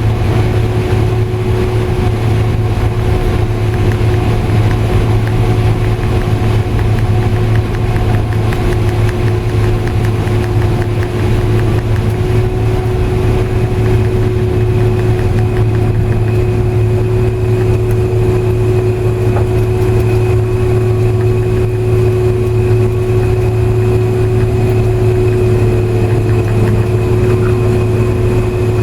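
Combine harvester running steadily while harvesting corn: an even, loud low engine drone with steady machinery hum layered over it, and a thin high whine that comes in about halfway.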